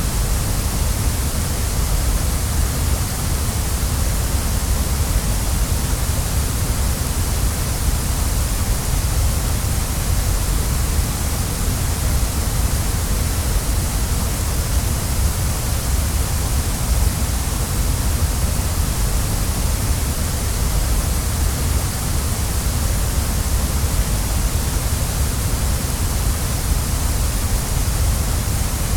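Waterfall: water falling in a steady, unbroken rush with a deep rumble underneath.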